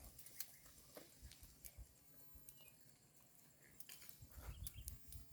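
Cows grazing, faint: scattered crisp clicks of grass being torn and chewed, with soft low thumps from about four seconds in.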